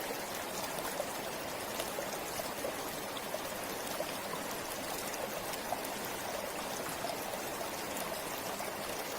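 Forest river flowing steadily, its water babbling and splashing in a constant rushing hiss with small, frequent splashes.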